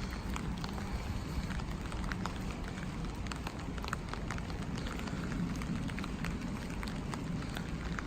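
Steady rain falling, with many scattered sharp ticks of drops striking close by.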